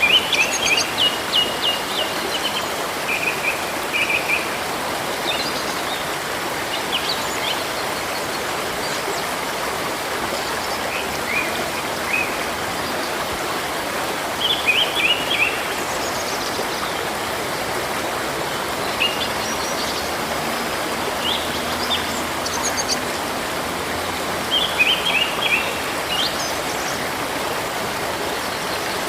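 Steady rush of flowing river water with small birds chirping over it in short bursts of quick, repeated high notes every few seconds.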